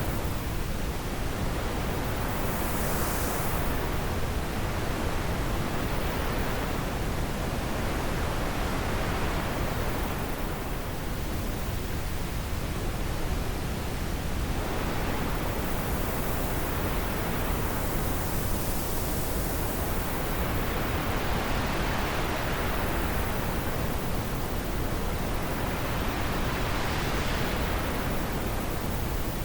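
Wind blowing steadily, an even rushing hiss that swells and eases every few seconds.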